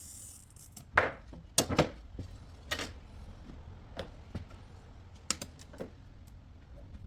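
A few irregular knocks and taps from hand tools and glass pieces handled on a workbench, the loudest about a second in and a quick pair just after.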